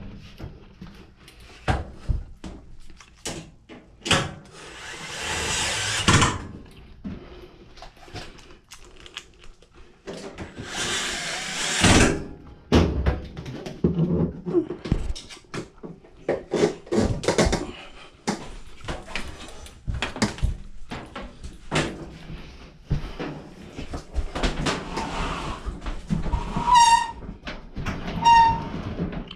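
Workshop handling sounds of a washer being reassembled: repeated knocks, clicks and clatter of tools and sheet-metal panels, with two longer rushing bursts of a couple of seconds each and two short pitched blips near the end.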